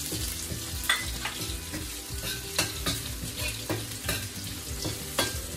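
Garlic and onion sizzling in hot oil in a stainless steel wok, with a metal ladle scraping and clinking against the pan every second or so as they are stirred.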